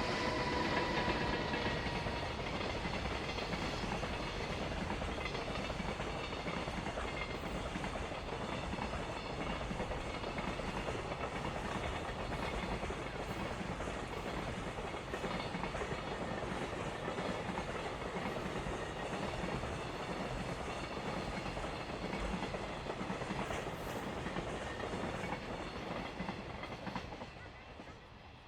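A long freight train's wagons rolling past over the rails with a steady clatter. A whine from the locomotive fades out in the first couple of seconds, and the sound drops away near the end as the last wagons pass.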